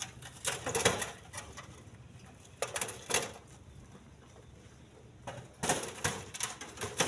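Split stone knocking and clattering as rocks are handled and dropped into a truck bed, in short irregular clusters of sharp knocks a few seconds apart.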